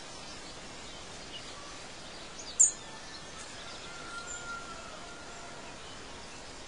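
Birds chirping over a steady background hiss: one loud, sharp, high chirp about two and a half seconds in, with fainter short calls and a brief whistle around four seconds.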